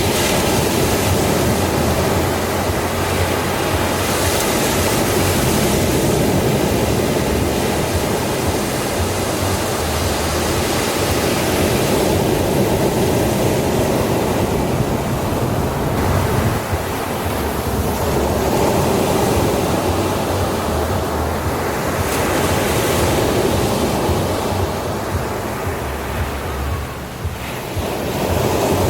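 Ocean surf washing onto a beach: a continuous rushing wash that swells and eases, dipping briefly near the end before building again.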